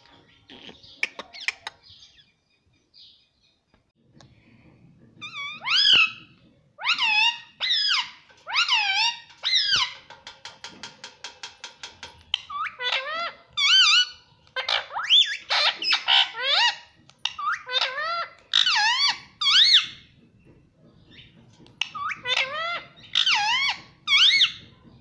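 Indian ringneck parakeet giving a run of loud, high-pitched calls, each a short rising-and-falling note. About ten seconds in, the calls give way to a quick stuttering chatter for a couple of seconds.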